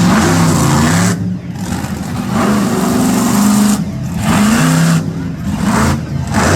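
Monster truck engine revving hard in bursts, the throttle lifting off briefly about four times and the pitch climbing again after each.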